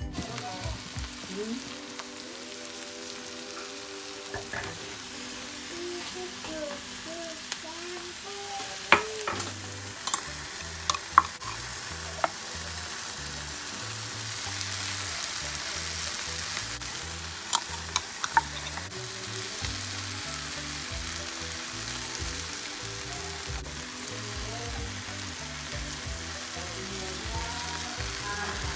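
Chopped eggplant and other vegetables frying in a stainless steel pot, a steady sizzle, with a few sharp clinks around nine to twelve seconds in and again about eighteen seconds in.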